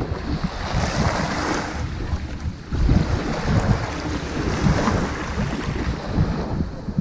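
Ocean surf washing onto a sandy beach, two waves swelling and falling away, over a low rumble of wind buffeting the microphone.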